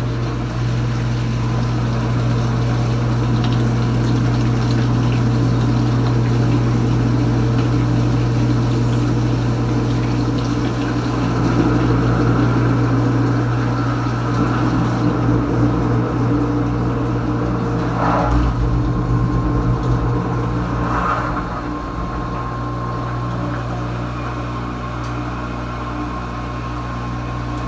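Kenmore Ultra Wash dishwasher's pump motor running steadily with a loud hum, water churning and spraying inside the tub. The sound eases a little about two-thirds of the way through.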